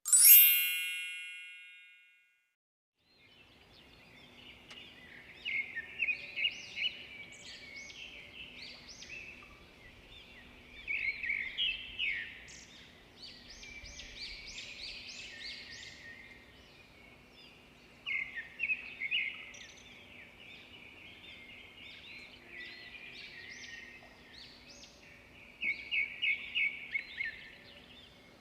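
A single bell-like chime that fades over about two seconds, followed by birds chirping and trilling in short clusters every few seconds over a faint steady hum.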